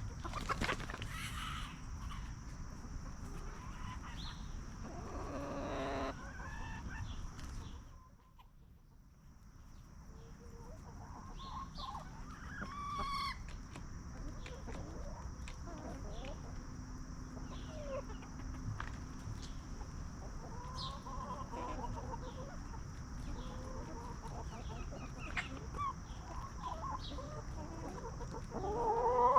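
Free-range hens clucking, with short scattered calls and a louder call near the end, over a steady high-pitched buzz.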